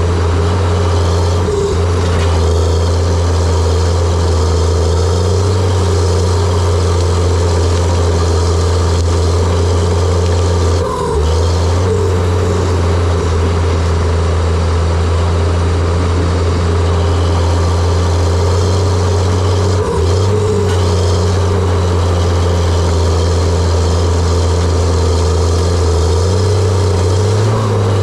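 John Deere 700J-II crawler dozer's diesel engine running steadily, a loud low drone that dips briefly twice, about a third and two-thirds of the way through.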